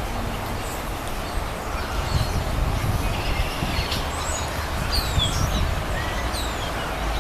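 American robins calling: a few thin, high, downward-slurred calls and short chirps, most of them in the second half, over a steady low rumble.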